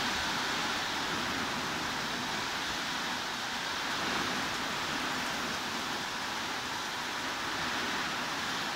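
Steady heavy rain, an even hiss with no single drops or knocks standing out.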